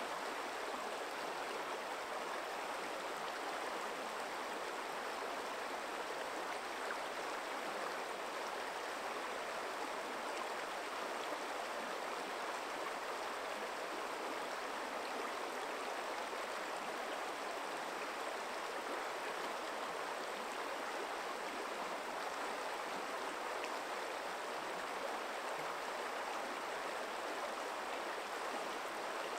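Forest stream running over stones: a steady, even rush of water.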